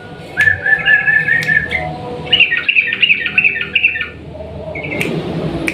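Yellow-vented bulbul (trucukan) singing a long, rapid run of short chattering notes in two quick phrases, with a brief note near the end.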